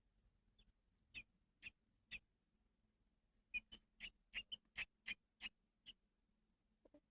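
Baby bird cheeping: three short high peeps, a pause, then a quicker run of about nine peeps.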